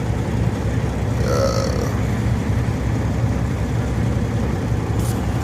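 Kenworth semi truck's 550-horsepower Caterpillar diesel idling, a steady low rumble heard from inside the cab. A brief higher-pitched sound cuts in about a second and a half in.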